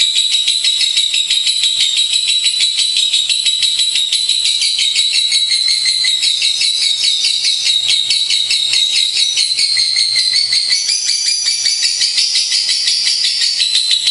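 Lovebirds chattering in a rapid, unbroken high-pitched trill of tightly packed notes, the song lifting slightly in pitch past the middle.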